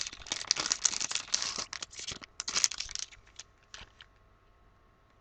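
Plastic card sleeve crinkling and rustling as it is handled and a trading card is slid in: a dense crackle for about three seconds, then a few scattered clicks as it dies away.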